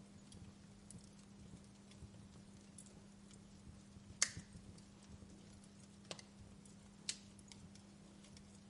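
Wood fire crackling quietly in a fireplace, with scattered sharp pops, the loudest about four seconds in and two more near the end, over a faint steady hum.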